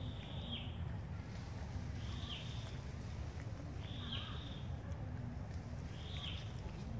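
A bird calling in the forest: a short, high call that bends downward at the end, repeated about every two seconds, four times. A steady low rumble runs underneath.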